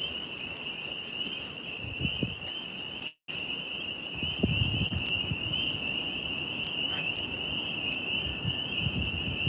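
Steady high-pitched chorus of crickets, with wind rumbling on the microphone that grows stronger from about four seconds in. The audio cuts out for a moment about three seconds in.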